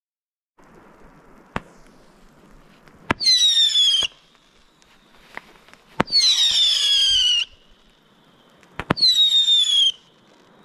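Whistling fireworks going off one after another. Three times a sharp pop is followed by a loud, shrill whistle that falls slightly in pitch over about a second, with further single cracks in between.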